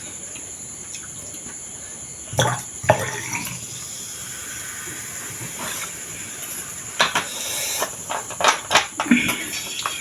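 Cutlery clinking and scraping against dishes while eating: a handful of short sharp clinks, bunched around three seconds in and again near the end, over a steady high hiss.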